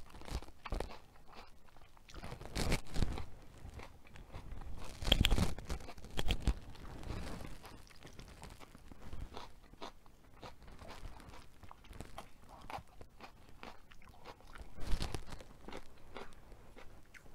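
A person biting and chewing a strip of yellow pepper: steady chewing with louder bites about three seconds in, again around five to six seconds in, and once more late on.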